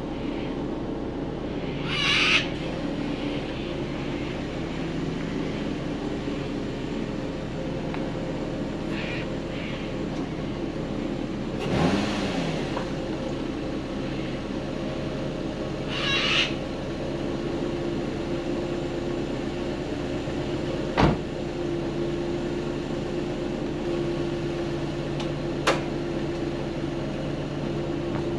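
Car engines idling steadily, with a few short hissing bursts and a brief dip and rise in pitch near the middle, and a couple of sharp clicks in the second half.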